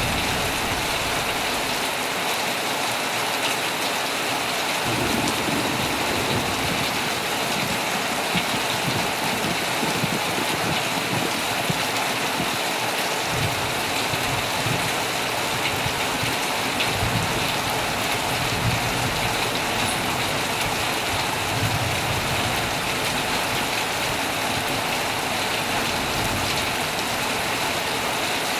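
Heavy rain falling steadily on a tent, a dense even hiss, with low rumbles of thunder coming and going in the second half.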